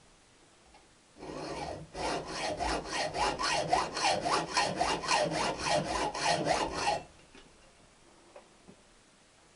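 A hand saw cutting through a rusty steel motorcycle exhaust pipe to shorten it for the silencer. A few light starting strokes are followed by about five seconds of quick, even strokes at about four a second, which stop abruptly.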